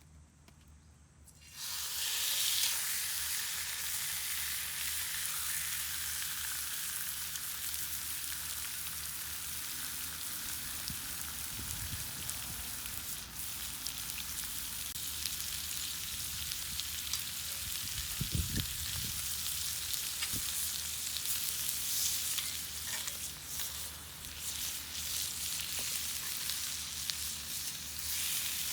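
Food sizzling in a hot skillet. The sizzle starts suddenly about a second and a half in, then holds as a steady hiss.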